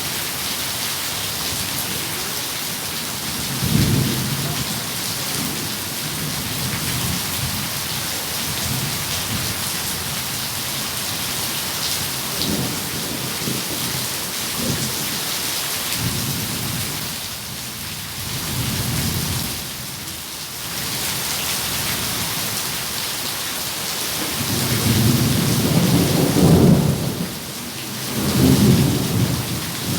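Steady rain hissing, with thunder rumbling on and off. A short, sharp clap comes about four seconds in, and the loudest, longest rumbles come near the end.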